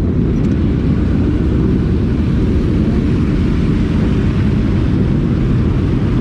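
Motorcycle engine running at a steady cruising speed, a constant low drone with road and wind noise mixed in.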